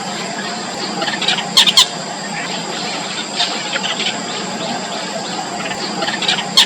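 Yellow bittern chicks in the nest giving a rapid run of short, high squealing begging calls, with a loud sharp double click about two seconds in and again near the end.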